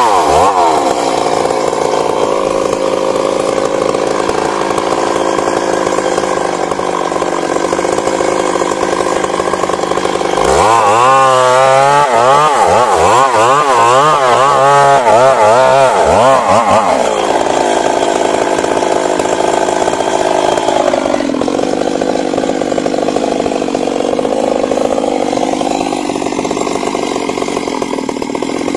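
Stihl MS 382 two-stroke chainsaw running under load in wood throughout. Midway, for about six seconds, its pitch rises and falls quickly over and over and it is at its loudest. Later it settles to a lower, steadier note.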